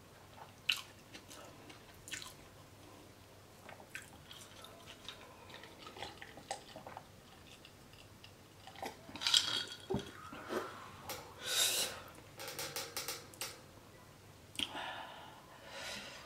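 Close-miked chewing and wet mouth sounds of a person eating a burger, with a few sharp clicks. About nine seconds in come louder sips and swallows of cola from a glass with ice, and a cluster of clinks and knocks as the glass is handled.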